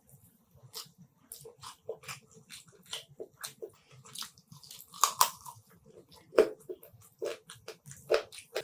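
Close-miked wet chewing and lip smacking of a person eating a meal, an irregular run of short mouth clicks and smacks, the loudest about five, six and a half and eight seconds in.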